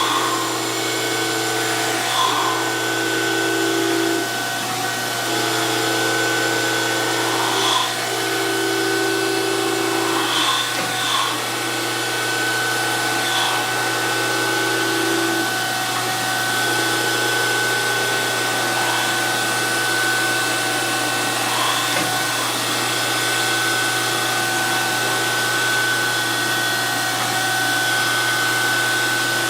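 DoAll 14-inch surface grinder running with a steady motor whine. A lower tone cuts in and out every second or two, with faint ticks every few seconds, as the grinder works.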